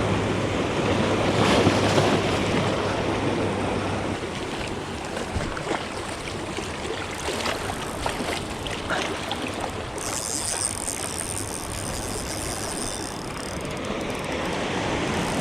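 Sea surf washing in over shoreline rocks, a steady rushing wash that is loudest in the first few seconds.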